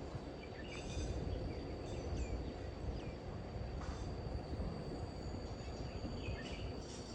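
Outdoor lakeside ambience: a steady low rumble of distant road traffic, a constant high-pitched insect drone, and a few short bird chirps scattered through.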